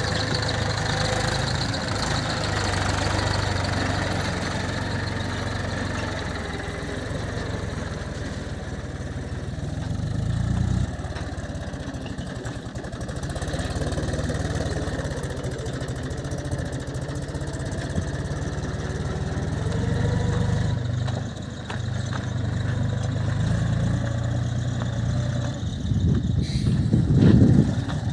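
Heavy diesel engine running steadily, its note shifting in level, with brief drops about a third and two thirds of the way through and a louder, rougher patch near the end.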